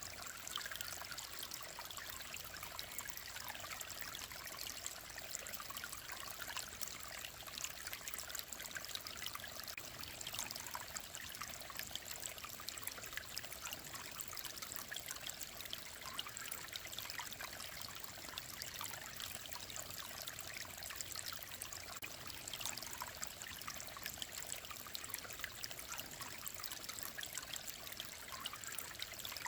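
Clear mountain stream running over stones, a steady babbling and splashing of water.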